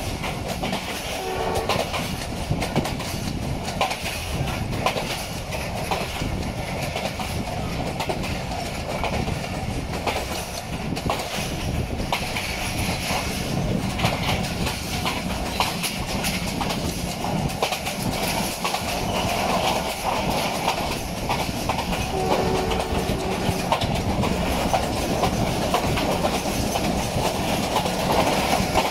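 Riding in a passenger train coach on the move: a steady rumble and rattle with wheels clacking over rail joints, plus brief faint tones about a second in and again near two-thirds of the way through.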